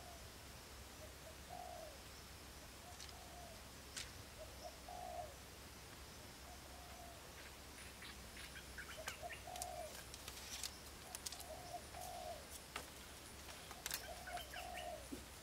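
A bird cooing over and over in short, low notes, roughly one a second. From about eight seconds in come scattered light clicks and taps as bamboo strips are handled and tied onto a bamboo frame.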